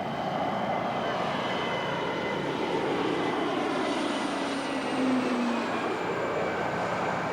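An aircraft flying past, its engine noise swelling and then dropping in pitch as it goes by.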